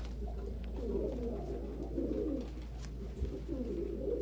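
Domestic pigeons cooing: three low, wavering coos one after another, over a steady low hum.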